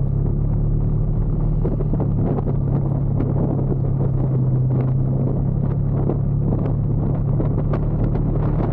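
Motorcycle engine running at a steady speed while riding, a low, even hum with road and wind noise crackling over it.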